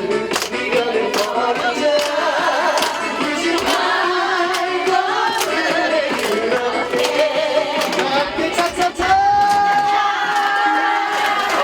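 Trot song sung live over a recorded backing track with a steady beat; near the end the singer holds one long note.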